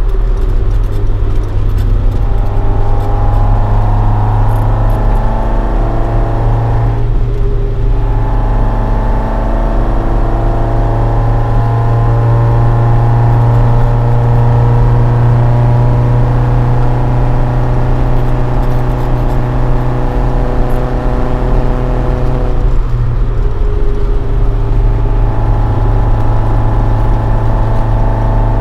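Toyota AE86 Sprinter Trueno with a swapped AE111 20-valve engine on four individual throttles, breathing through a Fujitsubo Legalis R exhaust, running steadily while driving. The engine note drops out briefly twice, about a quarter of the way in and again about four-fifths of the way through, before picking up again.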